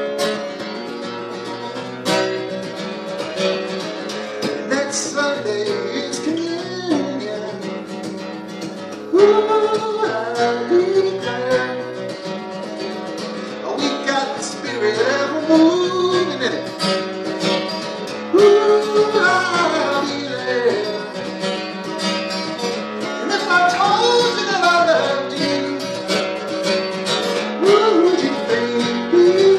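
Acoustic guitar played as a song accompaniment, with a singing voice carrying the melody over it. The music gets louder suddenly about nine seconds in and again near the halfway point.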